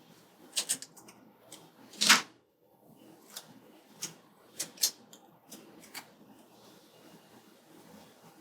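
Scissors cutting planner stickers, with paper handling: a series of sharp clicks and short rustles, the loudest a longer snip about two seconds in.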